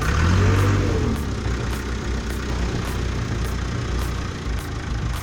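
Heavy machine's engine running, revving up and back down about a second in, then settling to a steady run.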